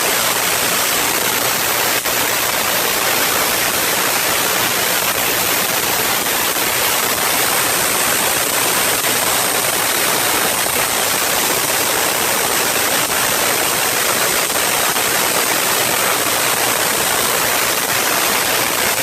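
Steady, even hiss of artificial storm noise, like heavy rain or rushing water, with no thunder rumbles.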